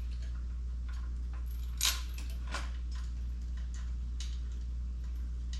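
Light metallic clinks and taps of small metal jack parts being handled, the loudest about two seconds in, over a steady low hum.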